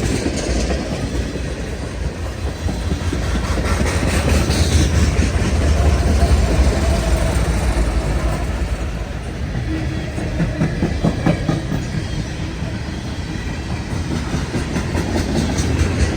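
A CN freight train's cars rolling past close by, a continuous heavy rumble with the wheels clicking rhythmically over rail joints.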